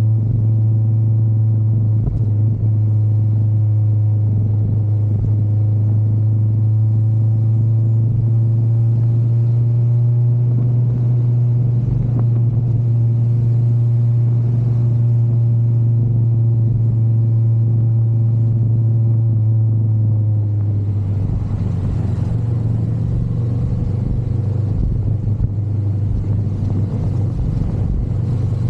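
Motorcycle engine running at a steady speed with a low, even drone. About two-thirds of the way through the sound changes: the steady tone loosens and a rougher, noisier rush takes over.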